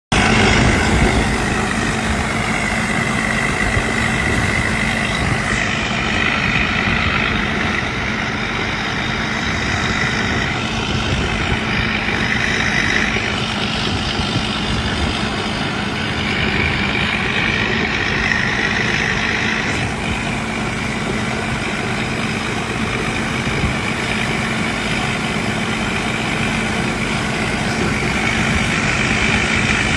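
Rice combine harvester's engine running steadily, with a constant hum and a higher whine that swells and fades every few seconds.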